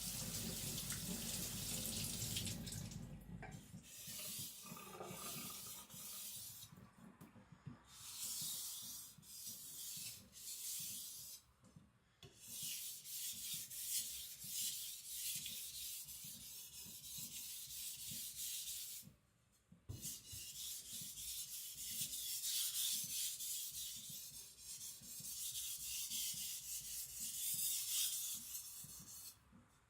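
Nakiri blade of Niolox steel being stroked back and forth across a wet whetstone, a hissing scrape in several long bouts with short pauses between them. Running water, from rinsing the slurry off, is heard in the first few seconds.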